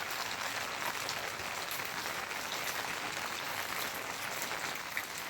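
Steady rain falling: a dense, even hiss of many small drop impacts.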